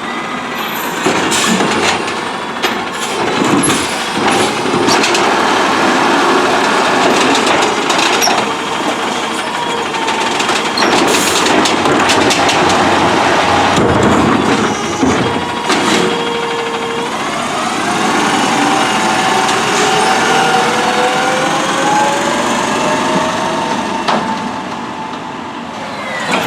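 Autocar ACX CNG garbage truck working: its engine running with a steady mechanical whine, several metallic clanks and knocks in the first half, then the engine's pitch rising and falling in the second half.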